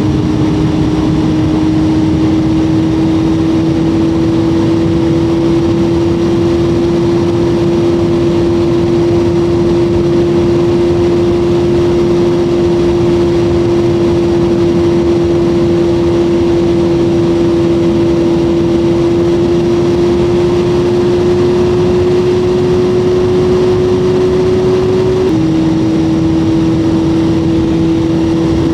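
Motorcycle engine running at cruising speed, its note rising slowly as the bike gathers speed, then dropping suddenly near the end as it shifts up a gear. Steady wind rush runs underneath.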